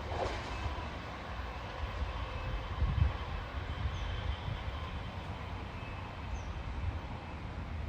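Steady low rumble of a SEPTA Silverliner V electric train set running away in the distance, with faint thin tones above it.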